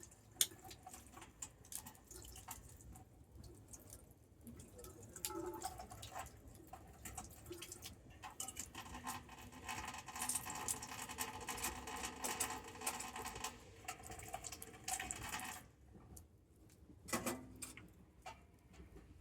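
Wood campfire crackling, with irregular sharp pops and snaps. From about nine seconds in, a steady hiss swells under the crackle for about six seconds, then drops away, leaving scattered pops.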